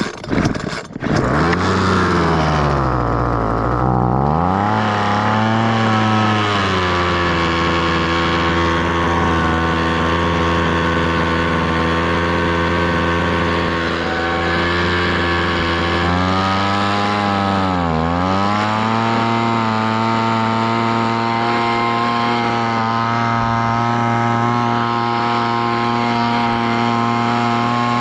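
Homelite leaf blower's small two-stroke engine pull-started on choke, catching within the first second and then running steadily. Its pitch sags and climbs back a couple of seconds in, and dips sharply and recovers again about sixteen seconds in.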